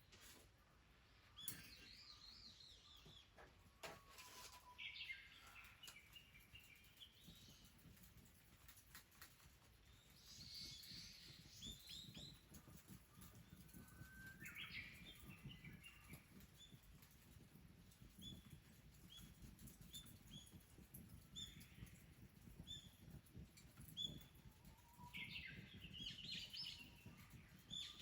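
Wild songbirds chirping and calling faintly, with scattered short phrases and, in the second half, a run of single short notes about one a second.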